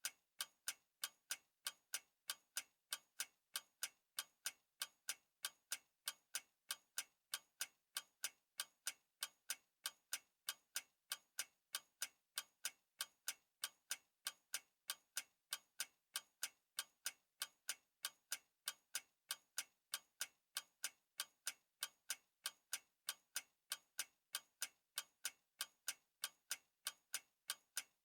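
Clock ticking: evenly spaced, crisp ticks in a steady, unchanging rhythm.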